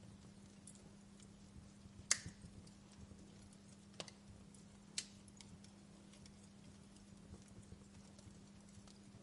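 Fire crackling in a fireplace: small ticks throughout and three sharper pops, the loudest about two seconds in, over a faint steady low hum.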